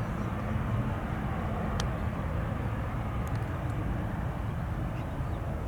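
Steady low rumble of jet aircraft engines, with a faint click about two seconds in.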